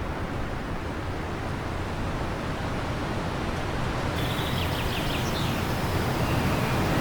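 Wind blowing steadily, growing gradually louder, with a few short bird chirps a little after halfway.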